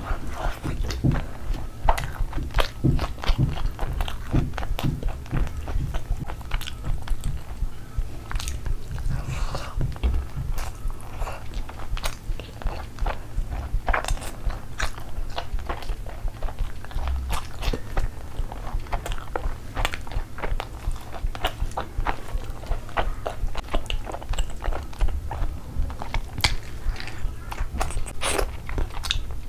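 Close-miked chewing and biting as a person eats spicy chicken curry by hand, a dense irregular run of wet mouth clicks and soft crunches.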